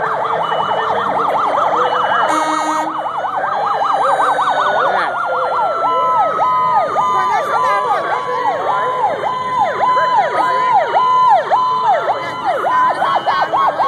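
Several emergency-vehicle sirens sounding at once: a fast yelp at first, then a slower whooping pattern about twice a second, over a long slowly falling wail. A short horn blast cuts in about two and a half seconds in.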